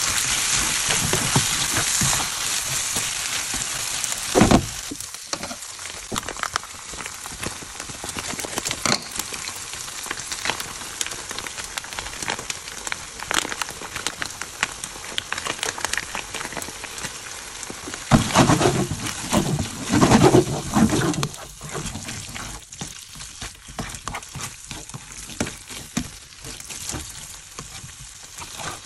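Rice noodles, egg and chicken sizzling in a hot nonstick frying pan as they are tossed with tongs, with many short clicks from the tongs. The sizzle is loudest at first and quieter after a sharp knock a few seconds in, with a louder spell about two-thirds of the way through.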